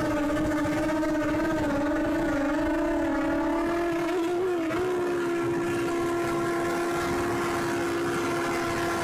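Quadcopter drone's motors and propellers humming at one pitch that wavers, then shifts and holds level about five seconds in.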